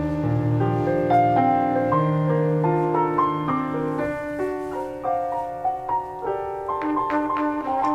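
Music led by piano, playing a melody of held notes with chords beneath.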